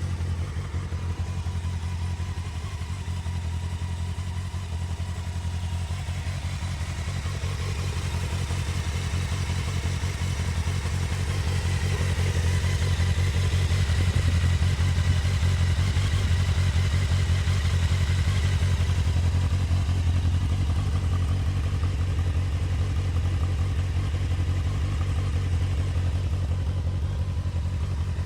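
Honda CBF600S's 600 cc inline-four engine idling steadily after a cold start, getting somewhat louder about a third of the way in and then holding even.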